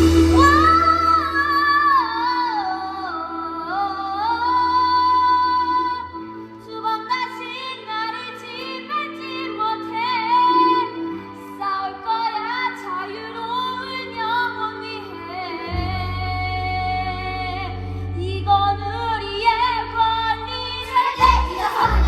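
A song from a children's musical: a high voice sings a melody over a backing track of sustained chords that change every few seconds. A steady low beat comes in near the end.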